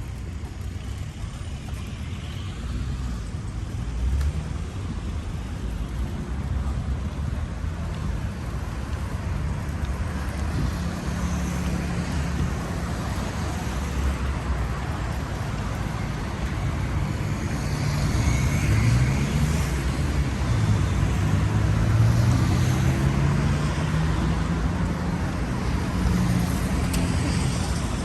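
Road traffic passing: a steady rumble of cars, with engine notes rising in pitch as vehicles speed up, getting louder in the second half.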